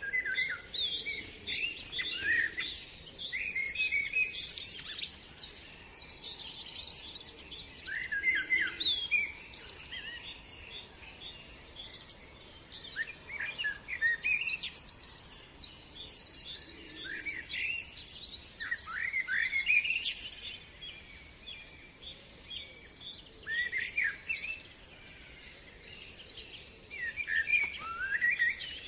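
Several songbirds singing at once, a busy chorus of short chirps, trills and rapid repeated notes overlapping one another.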